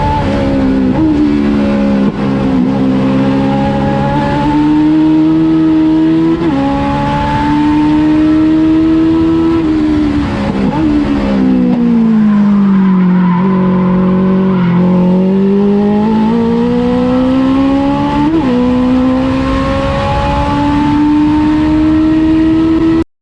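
Legends race car's Yamaha four-cylinder motorcycle engine running hard on track, its pitch easing down and climbing again several times as the throttle is worked, dipping lowest about halfway through. The sound cuts off suddenly at the very end.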